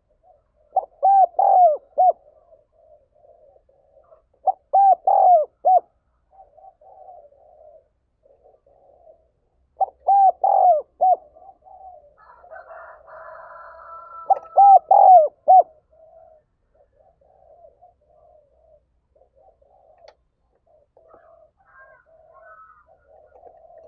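Spotted dove cooing: four loud phrases of three or four quick coos, a few seconds apart, with softer low cooing in between.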